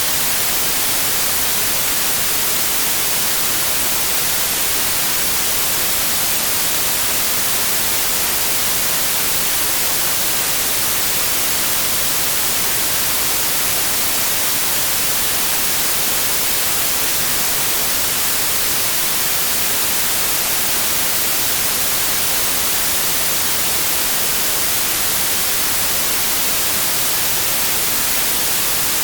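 Synthetic white noise: a steady, unchanging hiss with its energy rising toward the highest pitches.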